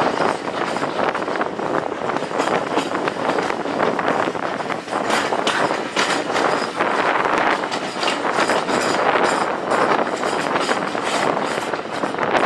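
A train running on the rails: a steady rush of running noise with many quick clicks of wheels over the track.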